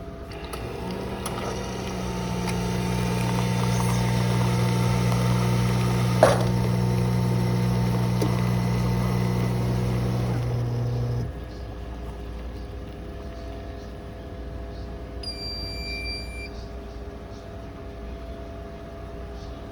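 Carimali Optima Ultra bean-to-cup coffee machine running a brew cycle: a steady low hum for about ten seconds, with a sharp click partway through, that cuts off suddenly. A few seconds later there is one short electronic beep.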